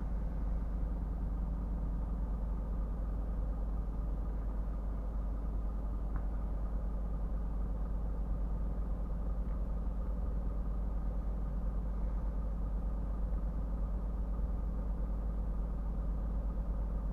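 Scania R450 truck's six-cylinder diesel engine running steadily on the move, a low, even drone that does not change.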